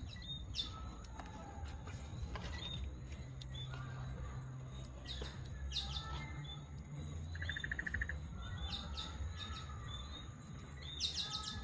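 Wild birds chirping: repeated short, sharp, falling chirps, with a fast trill about seven seconds in, over a steady low rumble.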